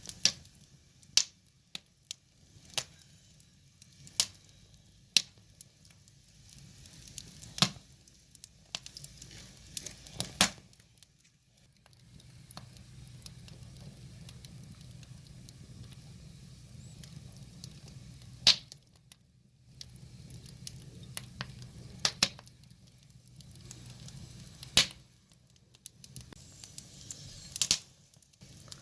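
Wood fire burning, with irregular sharp crackles and pops from the logs over a soft low hiss.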